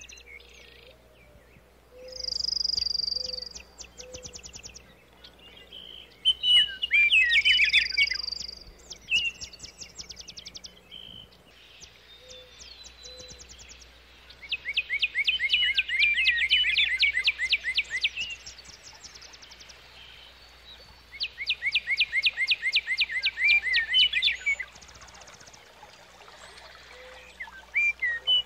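A songbird singing: phrases of fast, evenly spaced high chirps lasting a few seconds each, with a couple of drawn-out high whistled notes early on and short pauses between phrases.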